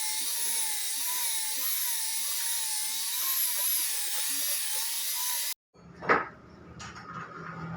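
A handheld power tool working on wood, with a steady high whine whose motor pitch wavers as it bears down on the work. It cuts off abruptly partway through, followed by a sharp click, a couple of light knocks and a low hum.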